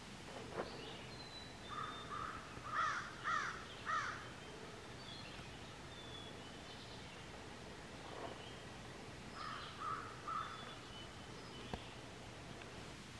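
Birds calling outdoors. One bird gives a run of about five loud calls, the last three loudest, about two to four seconds in, and three more near ten seconds, while other birds whistle thin high notes faintly over a steady faint hiss.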